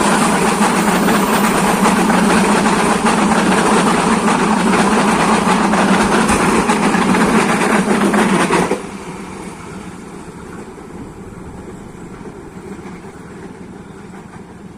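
A train passing close by, with a loud, steady rumble and rail noise. About two-thirds of the way through it cuts off suddenly, leaving a much quieter steady background.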